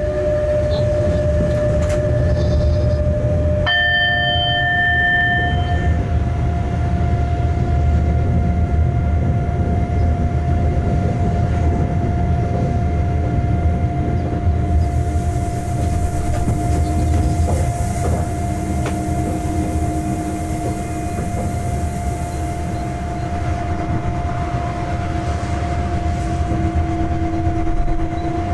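Freight locomotive running, heard from inside the cab: a steady low rumble with a steady whine that steps up in pitch about four seconds in. A high hiss joins in for several seconds midway.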